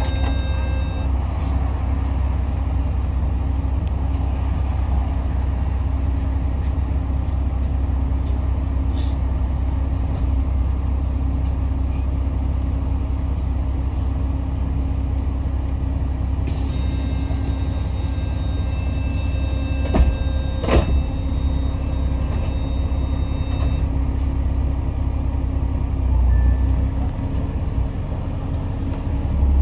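Diesel Yutong ZK6128HG city bus under way, heard from inside the cabin: a steady low engine and road rumble with a constant hum. About twenty seconds in there are two sharp knocks, and a heavier low bump comes near the end.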